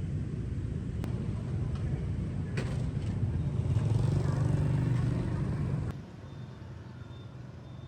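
A low, steady vehicle-like rumble that grows louder about four seconds in, then cuts off suddenly about six seconds in, leaving a quieter background with faint, repeated high chirps.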